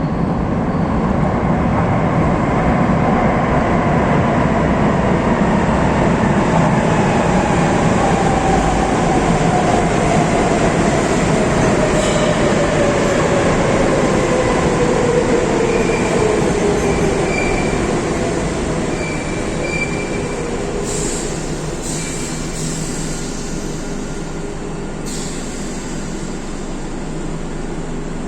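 Madrid Metro train unit 5531 pulling into a station, its whine falling steadily in pitch as it slows over about eighteen seconds, then running quieter as it comes to a stop. A few sharp clicks come near the end.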